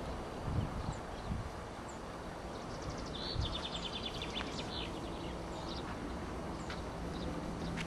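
Small songbirds chirping outdoors, with short calls and a buzzy trill a few seconds in, over a low outdoor rumble. A few low thumps come near the start, and a faint steady low hum joins about halfway through.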